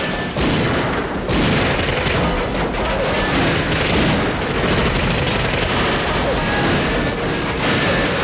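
Film action soundtrack: dramatic music over booms and rapid volleys of gunfire. It stays loud and busy throughout.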